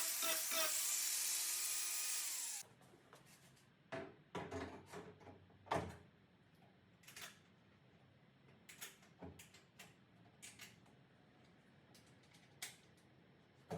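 Small electric power tool running with a steady whine, then switched off about two and a half seconds in, its pitch falling briefly as it winds down. After that come scattered light knocks and clicks.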